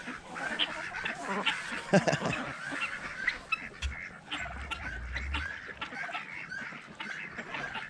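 Backyard chickens clucking and calling in many short, scattered notes.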